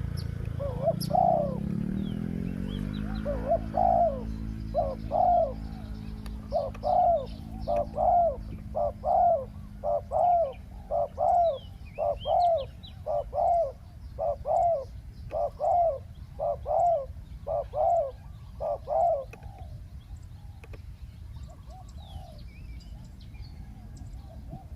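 Spotted doves cooing: a long run of short coos, mostly one or two a second, that stops about 19 seconds in. A passing vehicle's engine fades out over the first few seconds, and small birds chirp faintly.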